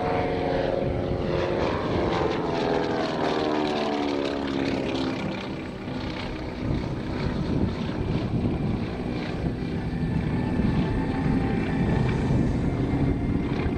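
Beech CT-128 Expeditor's two Pratt & Whitney R-985 Wasp Junior radial engines and propellers passing by, the engine note falling in pitch over the first few seconds. The drone dips briefly about six seconds in, then builds again as a rougher, steady engine sound.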